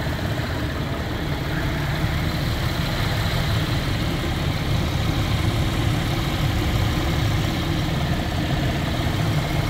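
Chevy Traverse's direct-injection V6 idling steadily with the hood open, warming up after a coolant refill to bleed air from the cooling system.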